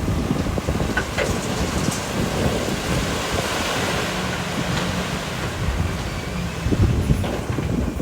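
Heavy diesel machinery working loose rock: a low engine rumble under a steady rushing noise of stone sliding and spilling, swelling a little in the middle.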